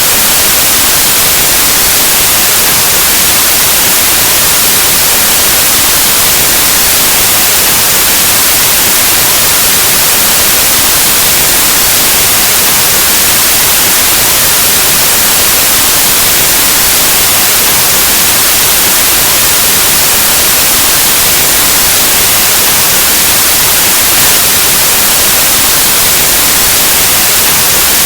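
Steady, loud white noise: an even hiss like analog TV or radio static, unchanging throughout.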